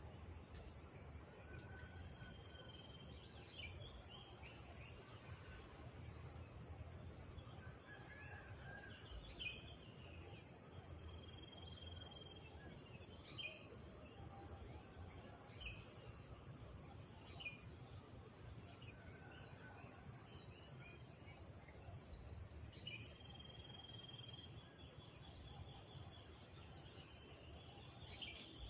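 Birds chirping at intervals, with a few short held whistled notes, over a steady high-pitched insect drone and a faint low rumble.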